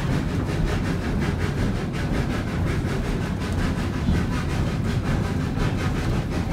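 Baldwin 2-8-0 narrow-gauge steam locomotive working hard up a steep grade, its exhaust chuffing in a fast, even beat of about five a second over the low rumble of the moving train.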